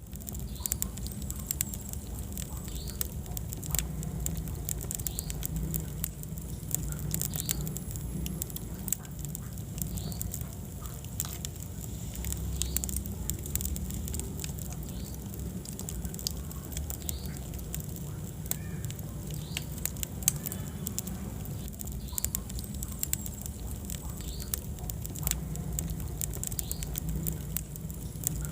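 Wood fire burning in a fireplace: many sharp crackles and pops scattered over a low steady rumble of the flames.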